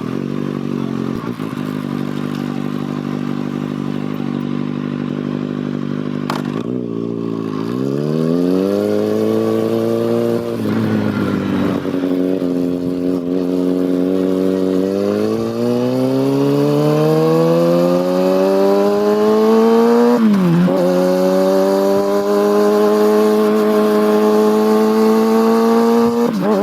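Kawasaki ZX6R's inline-four engine and exhaust under way. It holds a steady note for the first several seconds, then accelerates with the revs rising, with a quick drop in pitch at each upshift about ten and twenty seconds in. After the second shift it climbs slowly again.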